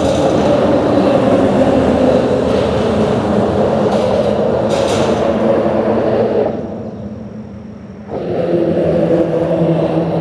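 Traffic passing on a bridge: a vehicle's engine and tyre noise, loud and steady, eases off after about six seconds, and a second vehicle comes through about two seconds later.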